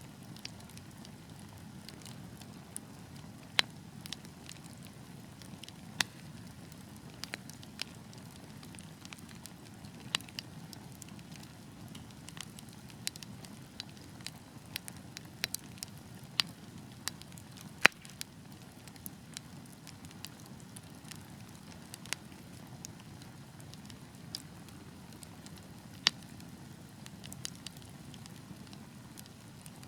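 Wood fire burning with a steady low rumble and hiss, punctuated by irregular sharp crackles and pops from the burning logs, a few of them much louder than the rest.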